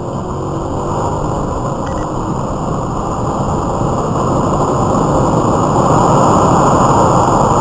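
Steady rushing road-traffic noise that swells gradually louder toward the end, with no impact or crash in it.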